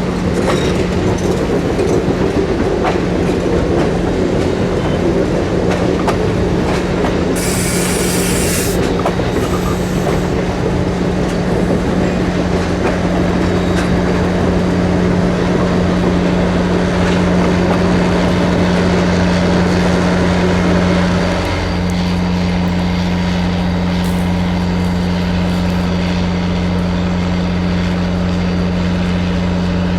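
A train's cars rolling by, with wheels clattering over the rail joints and squealing now and then over a steady, even engine hum. A short hiss comes about seven seconds in.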